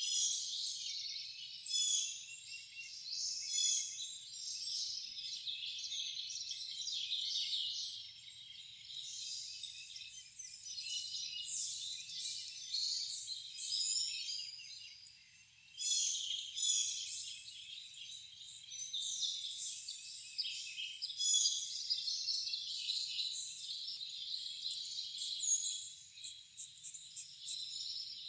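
A chorus of wild songbirds chirping and singing, many short calls and trills overlapping throughout, with a brief lull about fifteen seconds in.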